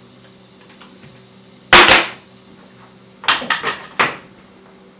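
Nail gun firing into wood: one loud shot a little under two seconds in, then a quick run of four or five lighter shots about three and a half to four seconds in.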